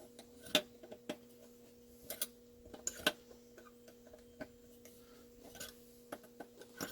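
Irregular light clicks and taps of hands and tools working on small chainsaw engine parts, about eight scattered over the stretch, over a steady low hum.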